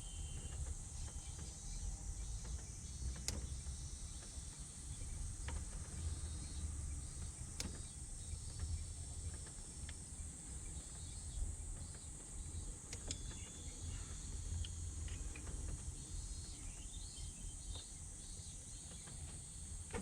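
Steady high-pitched insect chorus, over a low rumble and a few scattered sharp clicks.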